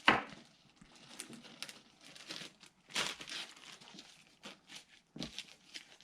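Plastic bag being handled and rustled open, an irregular run of crinkles with the loudest handful about three seconds in.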